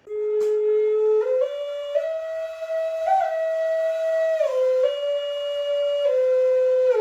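A slow flute melody of long held notes, climbing a few steps and then falling back, sliding smoothly from note to note.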